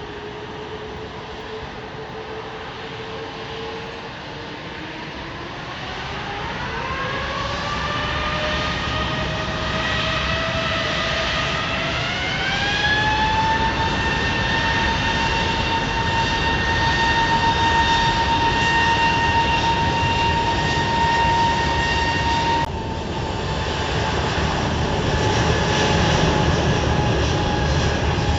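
A jet airliner's turbofan engines spool up to takeoff power. The whine climbs in pitch in two steps, then holds steady over a loud rumble. It breaks off abruptly about two-thirds of the way in, and engine noise carries on after the break.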